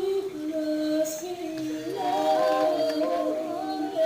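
A slow song with a woman singing held, gliding notes.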